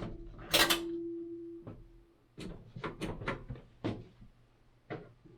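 Clunks and clicks of someone working a clothes dryer's door and controls: a loud clunk about half a second in with a ringing tone that fades over the next second and a half, then a string of short sharp clicks and knocks.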